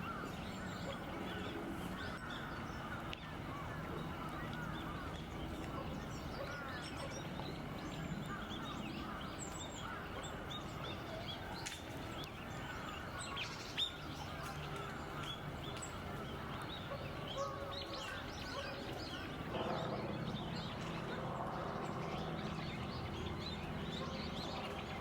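Wild birds chirping and calling, many short overlapping chirps over a steady low background hum, with one sharp click about fourteen seconds in.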